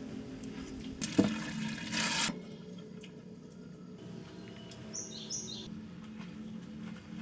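Water splashing and pouring for about a second, with a knock at the start, then a few short high bird chirps about five seconds in, over a steady low hum.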